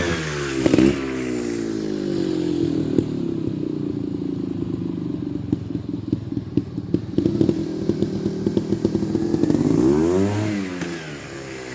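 Trials motorcycle engine blipped up and down at the start, then running at low revs with clattering, and revved up and down again near the end.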